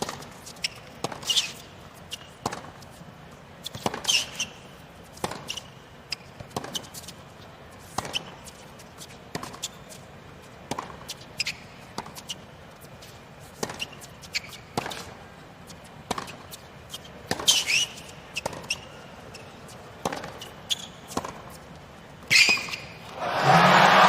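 A long tennis rally on a hard court: ball and racket strikes trade back and forth about every second and a half, a few of them harder hit. The crowd breaks into loud cheering and applause just before the end.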